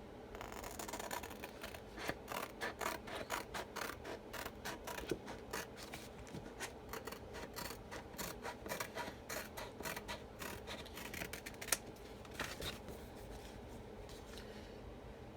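Scissors snipping through a plastic-mesh chalk transfer sheet on its backing, cutting it apart along its lines: a long run of quick snips, several a second, that thins out near the end.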